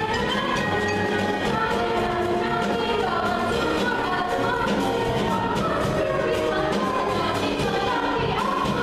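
A group of voices singing together over a musical accompaniment with a steady beat.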